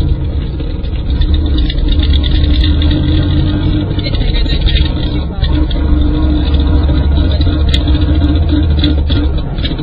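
Loud, steady low rumble from a Pontiac Trans Am on the move, with a wavering tone over it: the driveshaft support between transmission and differential has dropped after its mounting bolt came out and is rubbing on the spinning driveshaft.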